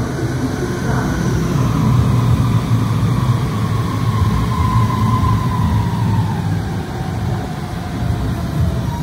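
Electric commuter train pulling into an underground platform: a steady low rumble with a motor whine that falls slowly in pitch as it slows to a stop.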